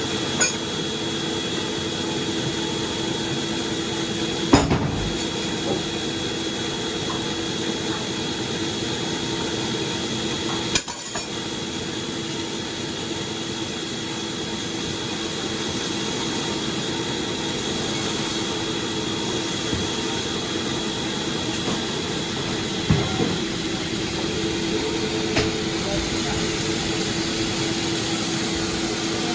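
Sawmill machinery running steadily with a constant hum and a high whine, and a few sharp knocks scattered through.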